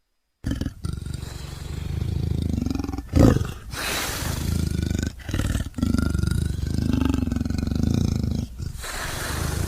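Indian leopard calling: a run of long roaring calls, each a second or two, with short breaks between them. The calls begin about half a second in and are loudest about three seconds in.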